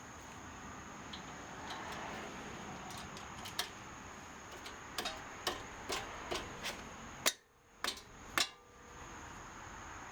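A string of short sharp clicks and light taps, about nine, irregularly spaced over a few seconds, the last three the loudest, over a steady hiss.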